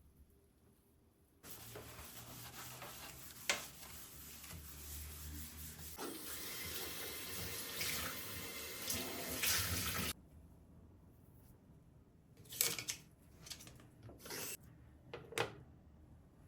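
Water running from a tap into a sink for about eight seconds, then cut off suddenly, followed by a few short knocks and clatters.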